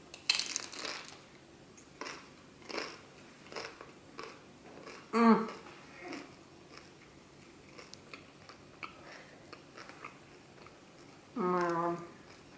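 A bite into a crisp spring roll wrapper with a loud crunch, then chewing with scattered crunches. A hummed "mm" comes about five seconds in, and another near the end.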